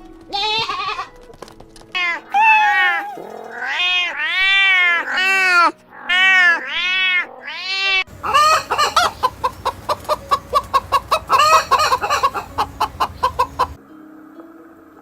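Animal calls: a string of short, arched, high-pitched cries over the first six seconds, then a fast run of rapid pulsed calls lasting about five seconds.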